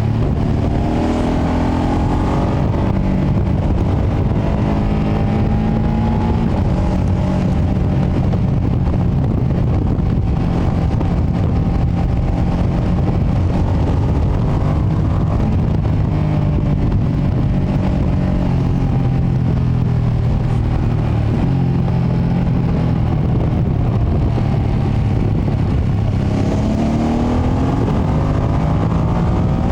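2025 Ducati Panigale V2S's twin-cylinder engine on the stock exhaust, riding along and accelerating, its pitch climbing at the start and again near the end and rising and falling more gently in between. Heavy low wind rumble on the microphone lies under it.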